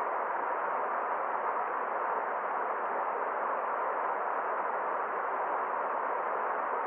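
Forest stream flowing: a steady, even rush of water with no separate splashes or other events.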